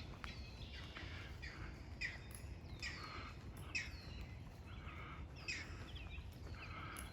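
Small birds calling repeatedly, short downward-sweeping whistles and chirps about once a second, over a low steady rumble.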